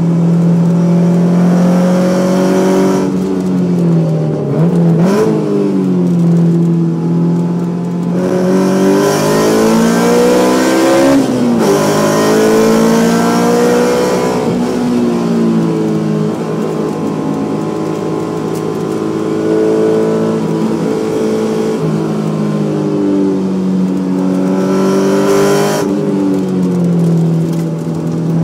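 Honda S2000 four-cylinder engine with Spoon camshafts running under changing throttle, its pitch dipping, climbing to a peak about eleven seconds in, falling back and then holding fairly steady.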